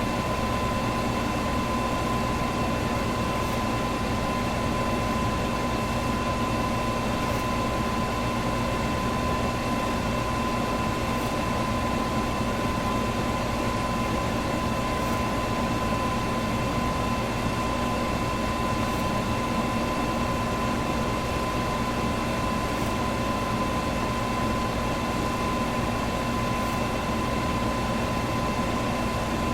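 Electric fan running steadily: an even whoosh of moving air with a constant motor hum and a thin steady whine, unchanging throughout.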